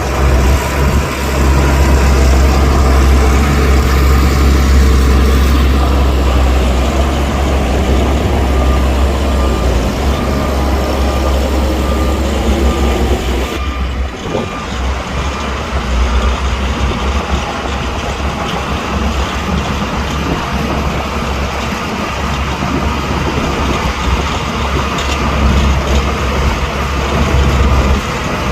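Heavy diesel earthmoving machinery working, with a steady low engine drone and clatter. The sound changes abruptly about halfway through.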